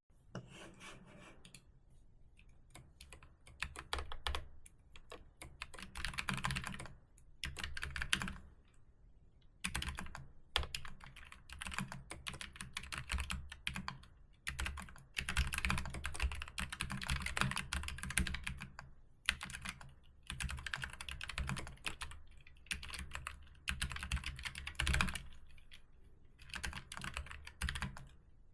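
Typing on a computer keyboard: runs of rapid keystrokes with short pauses between them.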